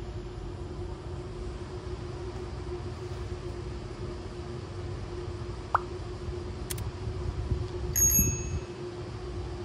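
Steady low rumble and hum of a train. A sharp click comes about six seconds in, and a brief high metallic ding with a knock comes about eight seconds in.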